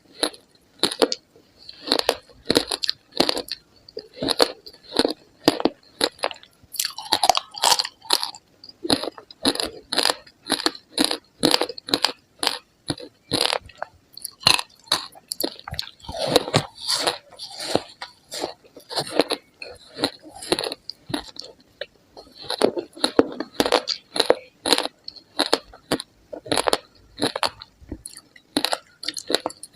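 Ice being bitten and chewed, with rapid, irregular crunching and crackling several times a second, close to the microphone.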